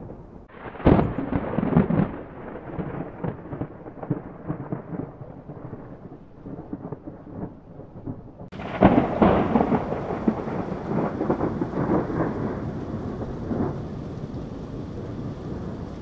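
Two thunderclaps. The first is a sharp crack about a second in, the second comes just past the halfway mark, and each is followed by several seconds of rolling, crackling rumble.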